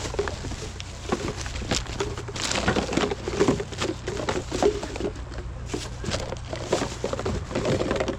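Rubbish being rummaged through by hand: plastic bags rustling and crinkling, with irregular small knocks and clicks as items are pulled out and handled.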